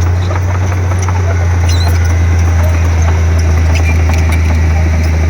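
Komatsu D31P bulldozer's diesel engine running at a steady low drone, with a few faint high squeaks.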